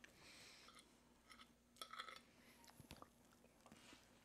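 Near silence with faint chewing and soft mouth clicks from someone eating a stuffed pepper, over a faint steady hum.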